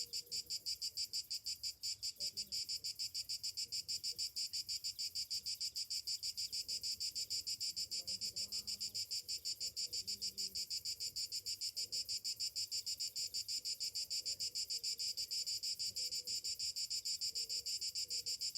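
Cicadas calling in a steady, evenly pulsed high buzz, about five pulses a second.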